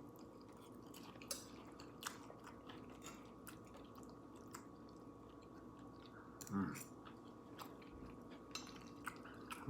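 Faint close-up chewing of food, with scattered small mouth clicks and a short voiced 'mm' about six and a half seconds in, over a faint steady hum.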